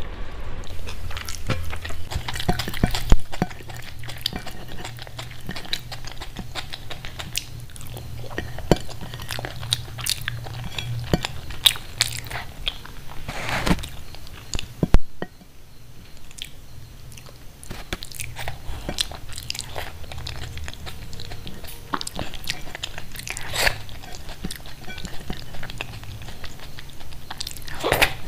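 Close-miked eating: wet chewing, lip smacks and mouth clicks from soft khichdi eaten by hand, with a few sharper crunches, the loudest about 3 and 15 seconds in. An electric fan hums steadily underneath.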